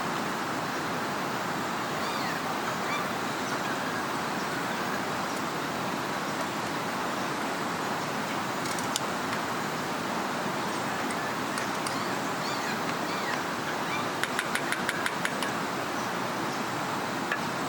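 Steady rush of flowing river water, with faint bird chirps over it and a quick run of about ten clicks about fourteen seconds in.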